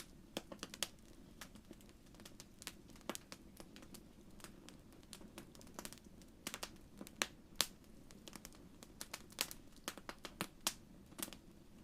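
Fireplace wood fire crackling: irregular sharp pops and snaps, several a second, over a faint steady low sound of the flames.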